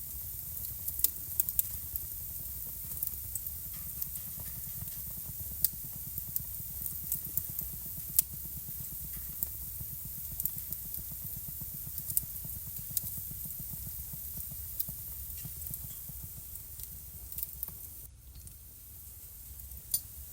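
Wood fire burning in a fireplace: a steady low rumble and hiss of the flames, with sharp, irregular crackles and pops from the burning logs.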